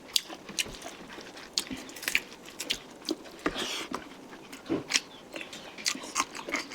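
Close-miked chewing and mouth smacking while eating chicken curry, a run of irregular wet clicks and smacks.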